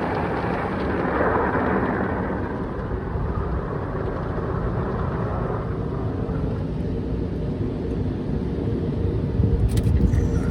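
Automatic tunnel car wash heard from inside the car: cloth washers and water sweeping over the body with a steady low rumble. The swishing is strongest for the first two seconds or so and then fades, and a few sharp taps come near the end.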